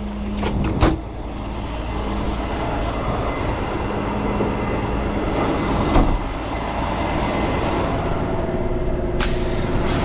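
Heavy truck engine running steadily, with sharp knocks about a second in and again around six seconds. A hiss of air starts near the end.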